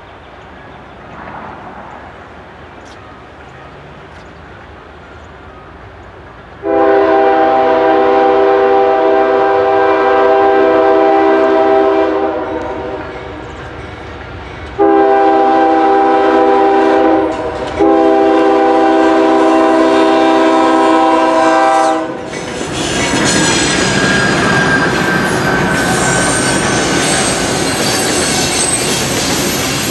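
CSX freight locomotive's multi-note air horn sounding three long blasts as a coal train approaches. The cars then rumble past with clickety-clack over the rail joints and a thin, high wheel squeal.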